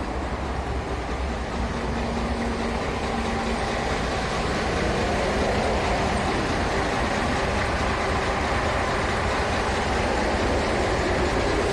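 Diesel engine of a MAN F2000 truck idling steadily, slowly growing a little louder.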